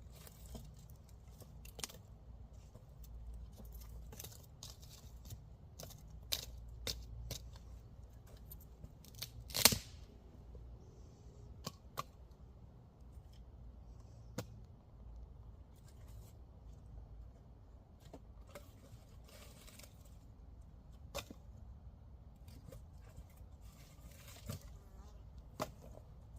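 Wood campfire crackling, with irregular sharp pops and snaps and a much louder crack about ten seconds in, over a low steady rumble.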